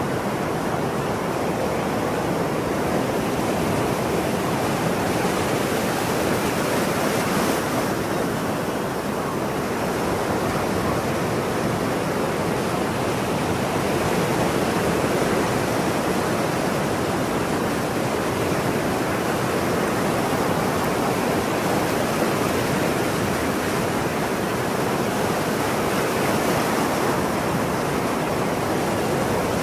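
Ocean surf: a continuous, steady rush of waves breaking and washing, with no gull calls standing out.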